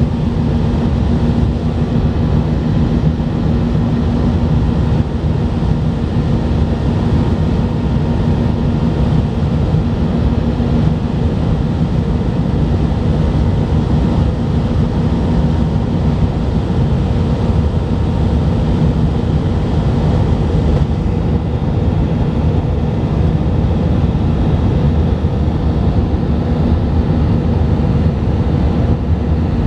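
Steady jet-engine noise heard inside the cabin of a Delta Airbus A319, a loud even rush with a constant low hum running under it.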